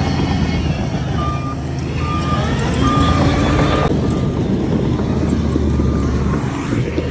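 Heavy diesel machinery engines running with a steady low rumble. Several short, high beeps sound at uneven intervals during the first few seconds, with one more later, like a reversing alarm.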